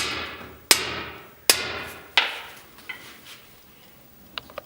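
Club hammer striking a machinist's hammer set against the door latch-bolt opening: four ringing metal-on-metal blows about three-quarters of a second apart, each fading out. The blows knock the opening smaller, so the rattling door closes tighter. A few light clicks come near the end.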